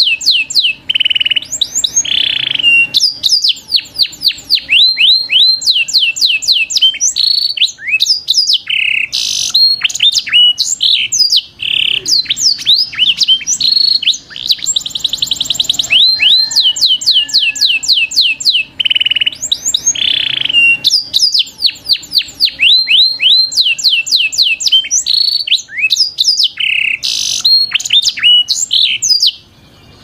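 Songbird singing loudly: fast runs of high chirps, each sweeping downward in pitch, in phrases with short breaks, stopping abruptly just before the end.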